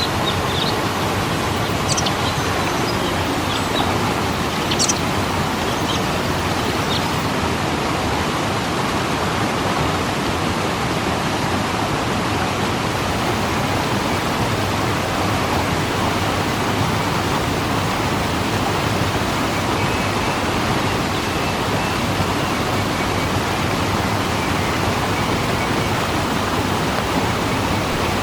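Waterfall: a steady rush of falling water, with a few faint small splashes or ticks in the first few seconds.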